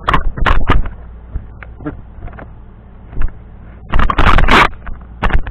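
Clicks, knocks and scraping of a microwave door and a plate being handled as the puffed-up soap is taken out, with a longer, louder scraping clatter about four seconds in.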